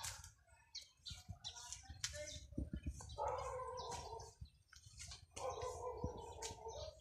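Small birds chirping in many quick, short calls, over a low rumble of handling noise from a phone carried by hand.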